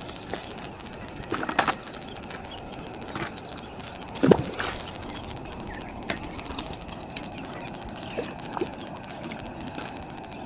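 Bird calls, like a dove cooing, over a steady outdoor background hiss, with a few short louder sounds, the loudest about four seconds in.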